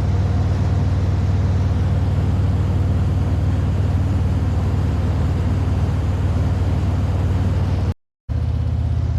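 Harley-Davidson Road Glide's V-twin engine running steadily at cruising speed, with wind and road rush over the rider's microphone. The sound cuts out for a moment about eight seconds in.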